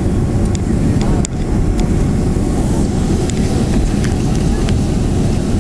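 Boeing 767 cabin noise: a steady, loud low rumble of the engines and airframe, with a few faint ticks.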